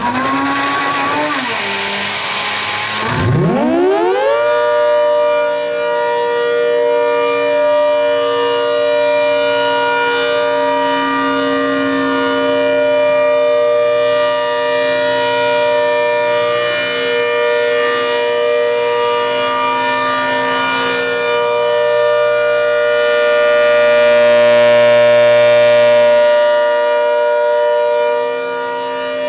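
ACA Hurricane MKII civil-defense siren sounding its steady alert signal: after a few seconds of loud rushing noise it winds up quickly about three to four seconds in, then holds a loud steady chord of tones. A swell of rushing noise rises over it for a few seconds near the end.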